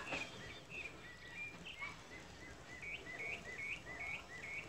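Birds chirping: a string of short, high, repeated notes, coming about three a second in the second half, over a faint low rumble of outdoor background noise.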